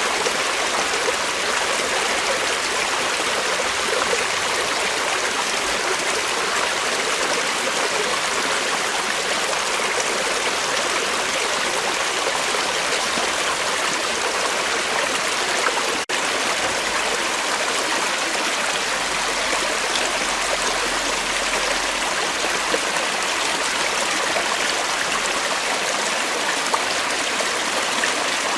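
Creek water flowing in a steady, even rush, with a momentary dip a little over halfway through.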